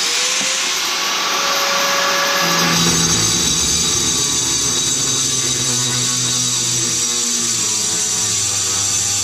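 Handheld power saw cutting into a ceramic tile wall: a loud, continuous grinding whine that shifts to a lower, heavier tone about three seconds in.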